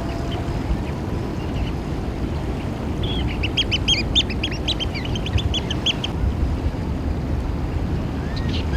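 Eurasian oystercatchers giving a rapid run of shrill, piping calls, starting about three seconds in and lasting about three seconds, over a steady low rumble.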